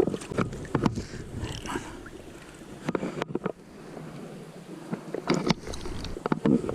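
Outdoor rumble of river water and wind buffeting the microphone, uneven and loudest in the low end, with scattered short clicks and knocks of handling; it eases off for a couple of seconds in the middle.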